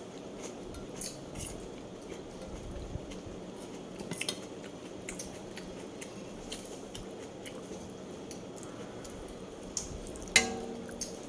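Eating sounds at a plate: scattered soft clicks and taps of utensils or dishes, then one sharp clink with a brief ringing tone near the end.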